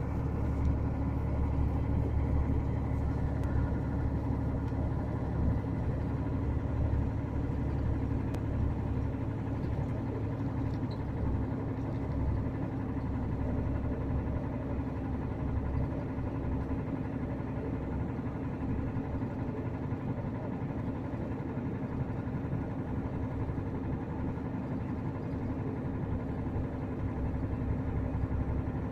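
DAF inline-six turbodiesel engine of a VDL Berkhof coach running steadily with a knocking from the engine, which the owner cannot place between rod knock and piston slap.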